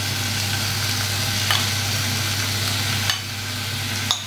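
Onions, chillies and sliced button mushrooms sizzling in hot oil in a frying pan, with a few light clicks as more mushroom pieces drop in from a bowl.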